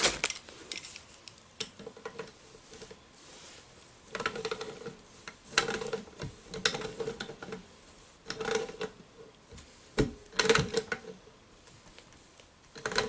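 Small metal plumbing parts and tools clinking and clicking in short clusters, each with a brief metallic ring, about five times.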